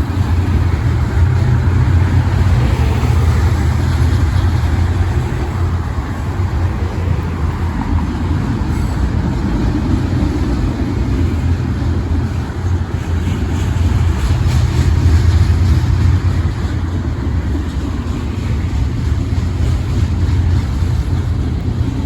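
Iowa Interstate Railroad freight train rolling past close by: a loud, steady low rumble of wheels and cars that swells and eases a little.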